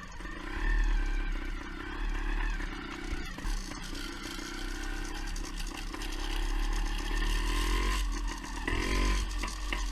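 Beta Synt two-stroke trials bike engine running under way, its pitch rising and falling with the throttle, more so near the end. The engine is running lean, which the owner hears as not running right.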